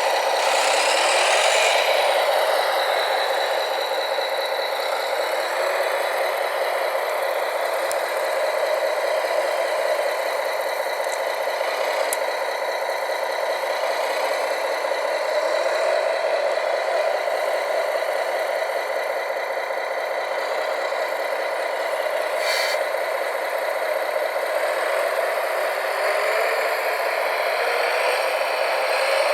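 Radio-controlled model construction machines and trucks running: a steady mechanical whir and rattle from their small motors and drivetrains, with short rising whines every few seconds.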